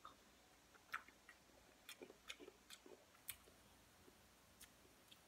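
Faint close-up chewing of a sauce-dipped boiled egg, with scattered wet mouth clicks and smacks, most of them bunched about two to three seconds in.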